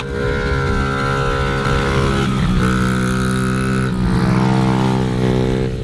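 Small dirt bike engine running at held revs, its pitch shifting about two seconds in and again near four seconds.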